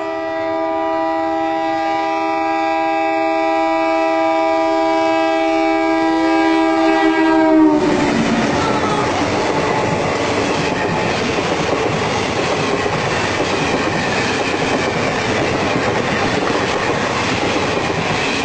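An Indian Railways train sounds its horn in one long blast of several tones at once. The pitch drops slightly as the train draws level, and the horn stops about eight seconds in. The coaches then pass close by with steady wheel-and-rail noise.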